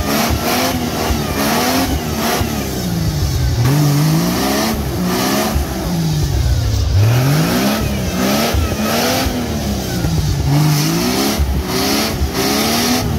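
Off-road 4x4 engine revving, its pitch climbing and falling again and again as the throttle is worked, with repeated rushes of noise over it.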